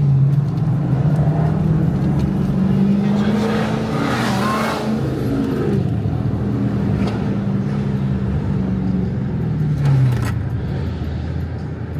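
Car engine running under light throttle. Its pitch climbs in the first second, holds steady, then drops near the end as the car slows.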